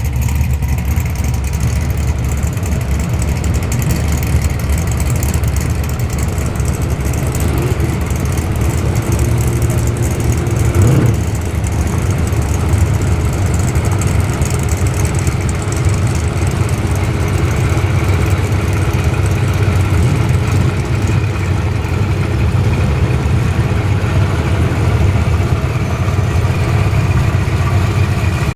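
Muscle car engine idling loudly and steadily with a deep low rumble, with a short blip of the throttle about eleven seconds in.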